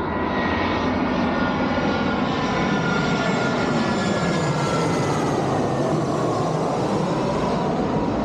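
Airplane coming in to land passing by, its engine noise swelling and then easing, with whining tones that slowly drop in pitch as it goes past.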